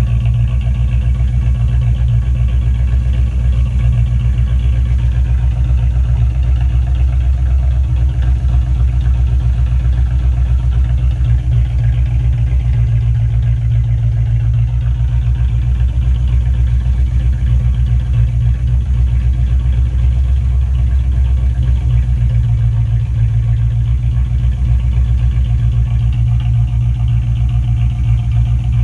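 1982 Pontiac Trans Am's V8 idling steadily, its exhaust heard close up from beneath the car.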